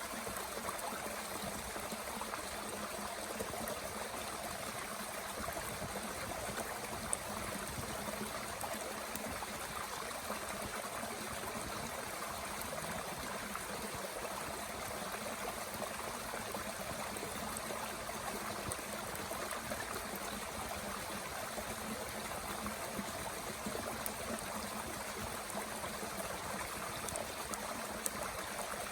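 A mountain stream running steadily, with a few faint crackles from a small wood fire in a Bushbox stove.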